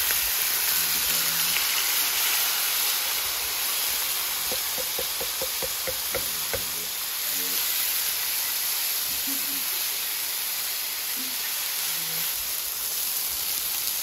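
Food frying in a hot pan: a loud, steady sizzle.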